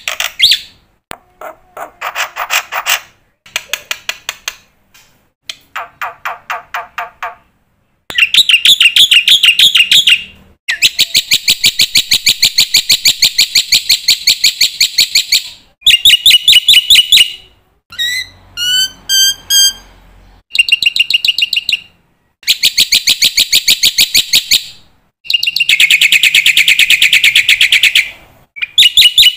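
Black-winged myna (jalak putih) singing at full voice, mixing in songs copied from other birds. Short phrases give way after about 8 s to long, loud runs of very fast repeated notes with brief pauses between them. Around the middle comes a short string of separate whistled notes.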